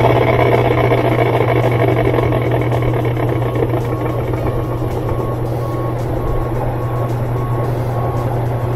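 Older Whirlpool top-load washer running a dry spin test with its new spin tube and drive block: a steady motor hum under a broad whirring noise, easing slightly and stopping just after the end. A faint beep repeats evenly from about three seconds in.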